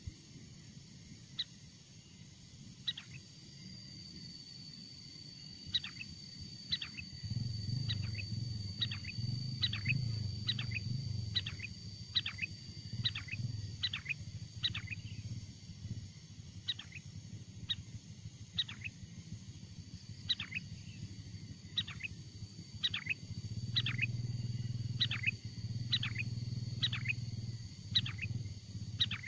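Sooty-headed bulbul (kutilang) calling: a long run of short, sharp notes, each falling in pitch, about one to two a second, with a few gaps. A steady high whine sits behind it, and a low rumble comes and goes.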